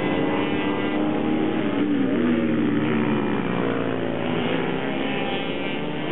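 Several small minibike racing engines at full throttle, their pitches rising and falling as they rev through the gears and pass.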